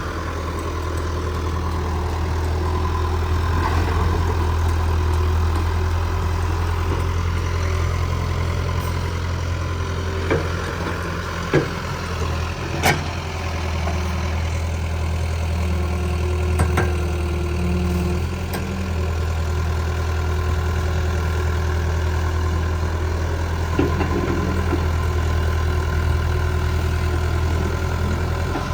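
Heavy machine's engine running steadily, its drone swelling and easing as the load changes, with a few sharp knocks or clanks around the middle.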